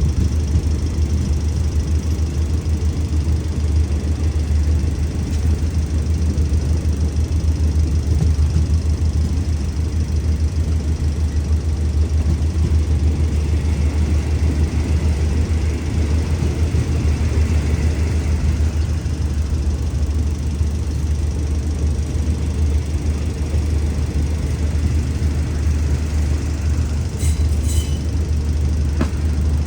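Alsthom diesel-electric locomotive idling: a steady, deep engine rumble with no change in speed.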